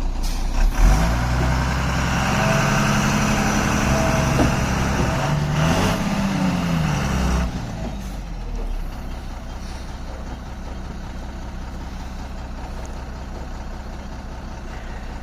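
Diesel truck engine working hard, its pitch dipping and rising again about six seconds in, then easing off to a quieter steady run about seven seconds in.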